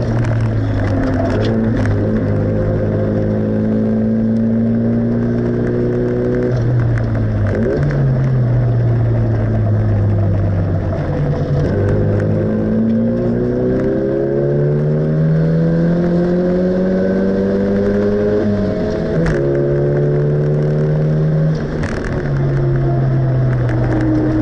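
Classic Mini's four-cylinder A-series engine heard from inside the cabin at racing speed. Its note climbs steadily as it pulls, then drops sharply four times as the driver lifts off or changes gear.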